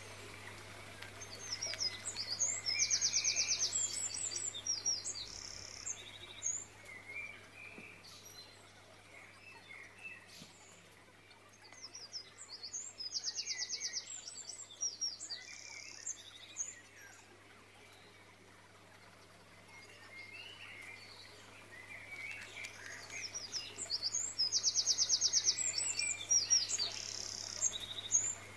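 Songbird singing: a phrase of high chirps with a rapid trill, repeated three times about eleven seconds apart, over a steady low hum.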